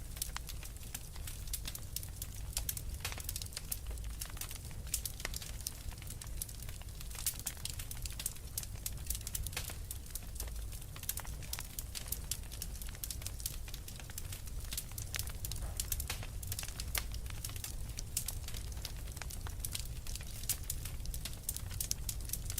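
Wood fire burning in a fireplace: dense, irregular crackling and popping over a low steady rumble of the flames.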